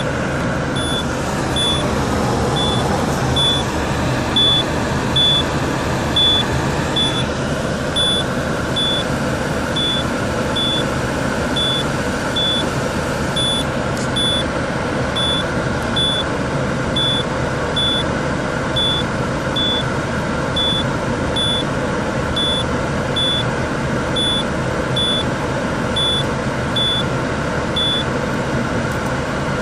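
Peugeot 307 HDi diesel engine and road noise heard from inside the cabin while driving, with a dashboard warning chime beeping steadily, about three beeps every two seconds, until it stops near the end.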